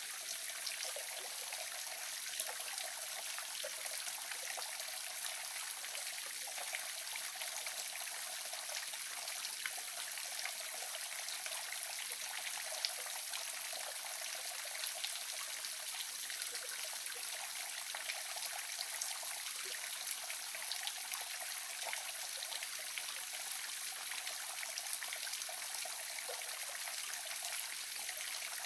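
Waterfall: falling water splashing in a steady hiss, with many fine splashes and little low rumble.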